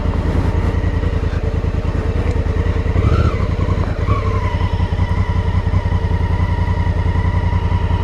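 Honda Africa Twin's 998 cc parallel-twin engine idling with an even pulse, with a brief rise about three seconds in. A faint steady whine joins about four seconds in.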